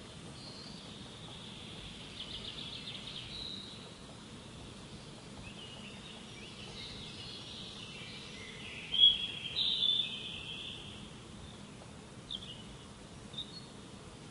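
Wild birds singing and calling over a steady background hiss, with a rapid trill about two seconds in and the loudest chirps about nine seconds in.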